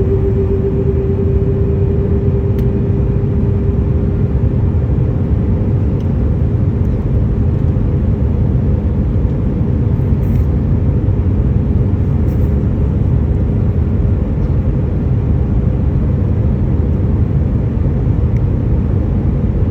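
Boeing 737 airliner noise: a steady low rumble of jet engines and airflow, with a steady hum that is strongest at first and fades over the first few seconds.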